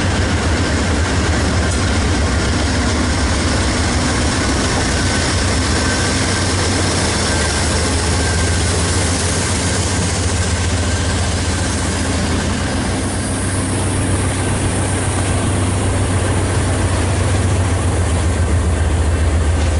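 GE Dash 9 diesel-electric freight locomotive passing close under power with a steady low engine drone, followed by covered hoppers and tank cars rolling by on the rails.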